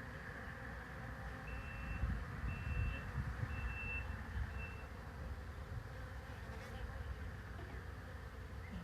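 Steady buzzing of a honeybee swarm, with four short high beeps about a second apart a couple of seconds in and a few low bumps.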